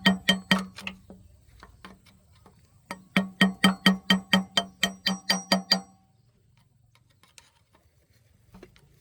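Rapid hammer blows on metal during a tractor engine repair, about four a second, each one ringing. A short run ends about a second in, and a longer run goes from about three seconds in to about six.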